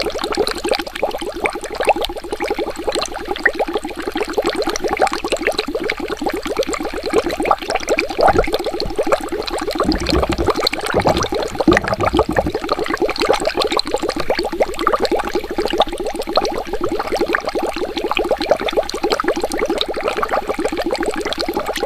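Water bubbling continuously, a dense stream of small bubbles popping many times a second. A few deeper gurgles come about 8 seconds in and again from about 10 to 12 seconds in.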